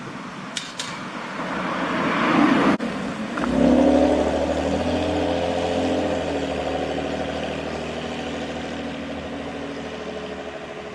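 Large truck driving past close by: a rising rush of noise, then its engine settles into a steady drone about three and a half seconds in that slowly fades away.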